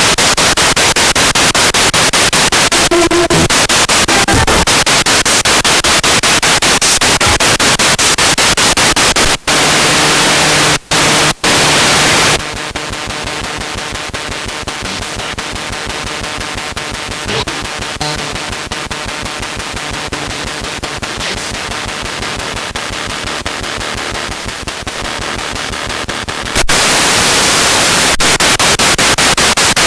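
Spirit box radio scanning through stations: loud static hiss chopped into rapid, even pulses by the sweep. About twelve seconds in it drops to a quieter, steadier sweep with faint tones showing through, then returns to loud static about four seconds before the end.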